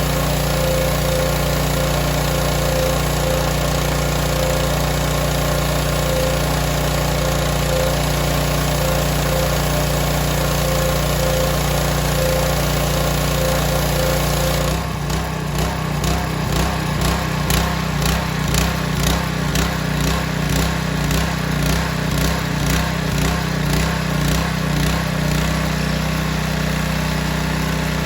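Small gasoline engine of a BE pressure washer running steadily, then about halfway through its sound turns into an even pulsing, a little more than once a second, which settles again near the end.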